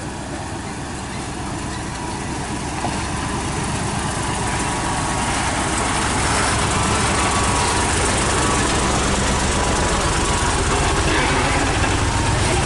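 Heavy tronton truck's diesel engine pulling uphill under load, with a low, pulsing rumble that grows louder over the first half and then holds steady.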